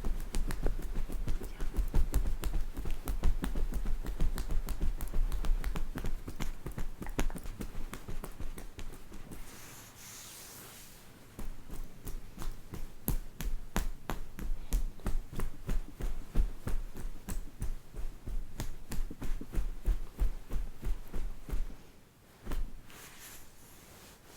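Rapid light tapping, many taps a second, broken by a short pause about ten seconds in and stopping near the end.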